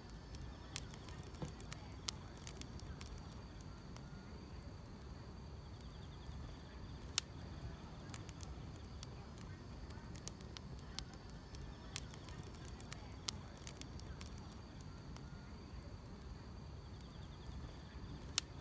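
Wood fire crackling with irregular sharp pops, the loudest about seven seconds in and near the end, over a steady low rumble, with faint insects chirring steadily in the background.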